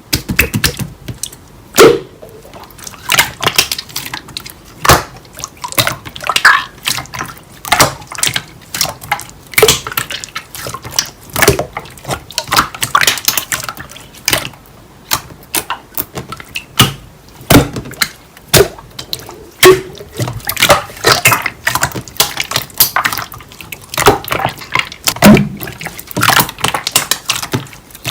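Slime being squished and stretched by hand: irregular wet clicks, squelches and popping air bubbles.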